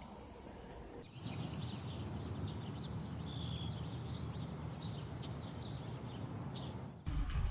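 Outdoor ambience: many short bird chirps over a steady high-pitched insect drone and a low rumble, starting about a second in and cutting off near the end.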